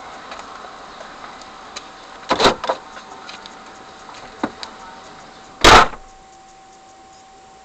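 Car door clunks and knocks, then a door shut with one loud thud a little past the middle, heard from inside the car.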